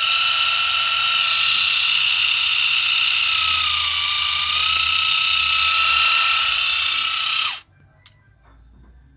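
Small electric motor of a homemade RC 4x4 truck running with a steady high-pitched whine. The pitch sags briefly near the middle, then the motor cuts off suddenly about seven and a half seconds in.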